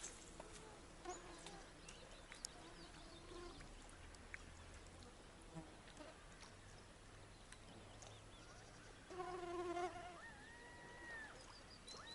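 Quiet outdoor ambience with scattered bird chirps and whistles; about nine seconds in, a short, louder animal call with a buzzy pitched tone, followed by a curved whistle.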